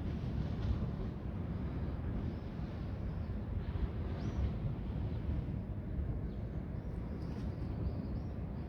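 Steady low outdoor rumble of a seafront walk, with a few faint high chirps now and then.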